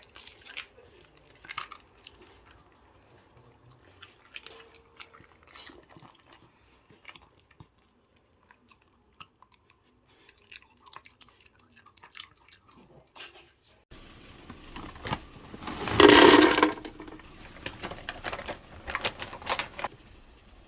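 A dog chewing on a chewy treat: scattered short wet clicks and smacks, with one louder sound lasting about a second about two-thirds of the way through.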